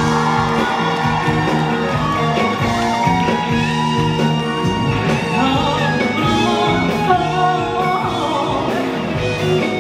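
Amplified live band playing a slow pop ballad in a large hall, with sustained melodic notes over steady chords between the singer's lines.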